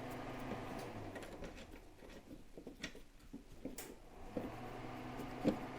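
Faint, scattered clicks and light taps of metal parts being handled as a hood hinge is fitted, over a low steady hum; the sharpest click comes near the end.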